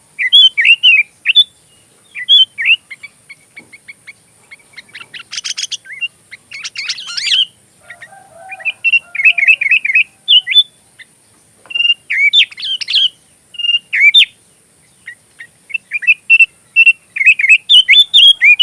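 Sooty-headed bulbul singing a fast, varied run of chattering, warbling phrases, with two harsh buzzy rattles about five and seven seconds in. This is a song filled with mimicked Oriental magpie-robin phrases.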